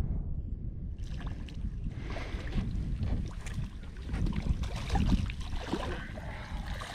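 Wind buffeting the microphone in a low rumble, joined about a second in by irregular water splashing and sloshing at the side of a small boat.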